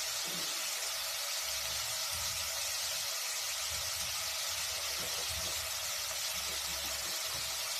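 Chopped tomatoes, peppers and parsley sizzling in hot cooking oil in an aluminium pot: a steady hiss.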